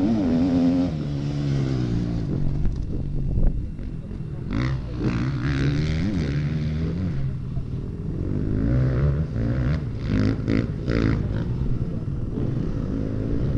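Motocross bike engines revving up and down over and over as the bikes ride the track, the pitch climbing and dropping with the throttle.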